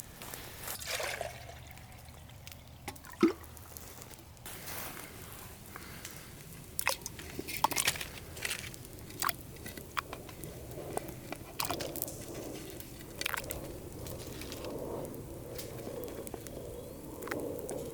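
Campfire cooking: scattered sharp crackles and clicks with soft wet, squishing sounds of food being handled and cooked. One loud sharp click comes about three seconds in, and the crackling grows busier in the second half.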